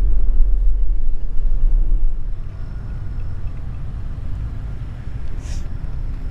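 Mitsubishi Delica Mini's engine and road rumble heard from inside the cabin, dropping to a quieter low drone about two seconds in as the car slows in the car park.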